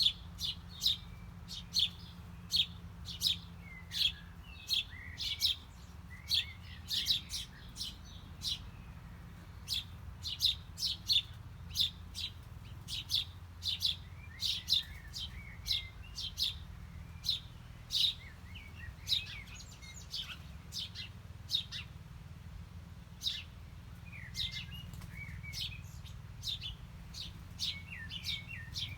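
Small songbirds chirping: a steady series of short, sharp chirps, about one or two a second, with softer twittering notes in between, over a steady low hum.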